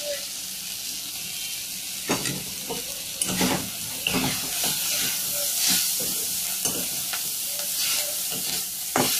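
Chicken momo filling of chicken paste and chopped vegetables sizzling in oil in a kadai, with a spatula stirring it and scraping and tapping against the pan every second or so.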